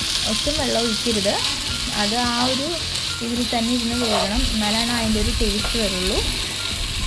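Chicken frying and sizzling in a steel pan as it is stirred with a spatula, with a voice going on throughout.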